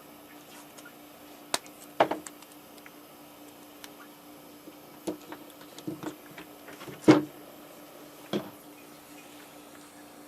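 Scattered light knocks and clicks of small tools and wires being handled during soldering, about half a dozen, the loudest about seven seconds in, over a steady low hum.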